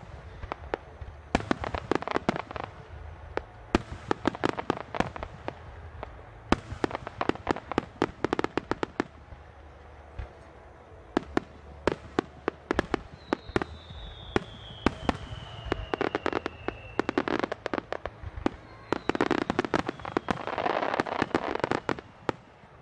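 Aerial fireworks bursting in quick succession, many sharp bangs with crackling between them. A long falling whistle comes about halfway through, and a dense crackling barrage near the end.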